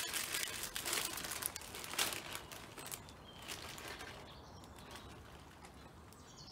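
Crackling and rustling for about three seconds as a fat ball of bird food is broken up by hand, then small garden birds chirping a few times.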